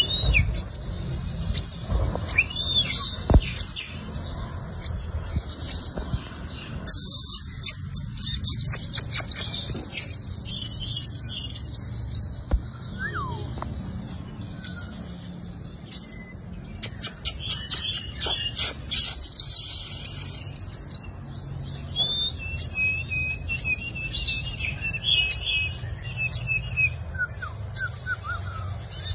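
Sunbird singing: sharp high chirps repeated about once a second, broken twice by rapid high trills a few seconds long, with a lower warbling phrase near the end.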